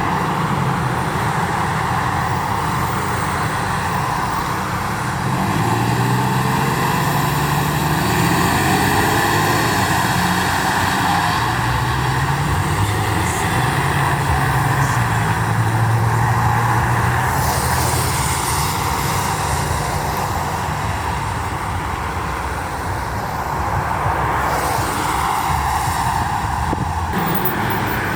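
Motor vehicle engines running in road traffic: a steady low engine hum that shifts in pitch over a broad noise of passing traffic.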